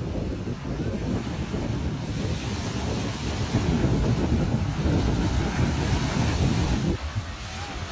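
Ocean waves washing on a beach, with wind rumbling on the microphone. The surf grows louder about halfway through, then drops off suddenly near the end.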